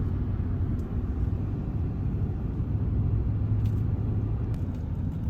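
Steady low road and engine rumble of a moving vehicle, heard from inside the cabin.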